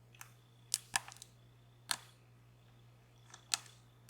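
Sharp metallic clicks of a lock pick working inside a DOM Plura lock cylinder, about seven irregular clicks, some in quick pairs.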